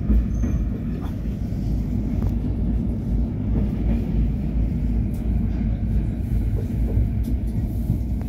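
Moving Indian Railways express train heard from inside a passenger coach: a steady low rumble of wheels on rails, with a few faint scattered clicks.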